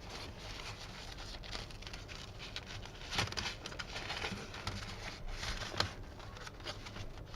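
A nylon packaging bag crinkling and rustling as it is handled and opened, with scattered small clicks and a couple of louder crackles about three and six seconds in.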